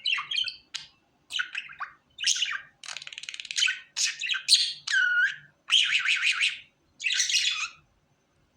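Pet budgerigar chattering: a run of quick chirps and scratchy squawks, with one clear whistle that dips and rises about five seconds in. The calls stop a little before the end.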